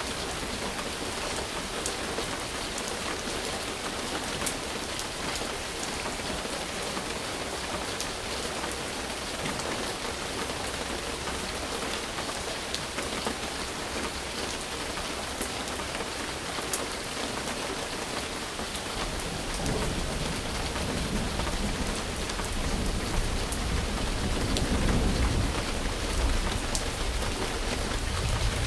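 Steady rain falling, with scattered sharp drop ticks. About two thirds of the way in, a low rumble of thunder builds and swells, running on to the end.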